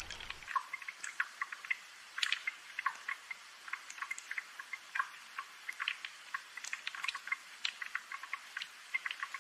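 Light rain dripping and pattering: a quick, irregular scatter of small drops over a soft hiss.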